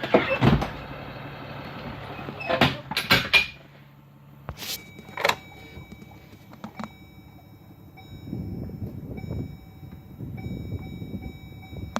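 Minibus door sounds: a sliding door running and shutting with several loud knocks in the first few seconds. A couple more clicks follow, then a steady high tone, with a low rumble in the last few seconds before the engine is started cold.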